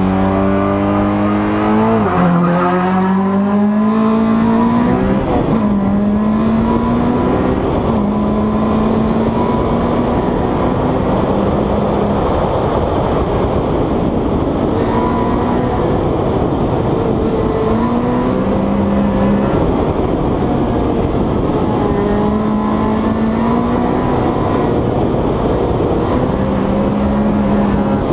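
Honda Civic VTEC four-cylinder race engine under hard acceleration from a standing hillclimb start. The revs climb steeply off the line and drop at upshifts about two and five seconds in. After that the engine is held at high revs, with short dips and rises as the driver lifts and shifts for the bends.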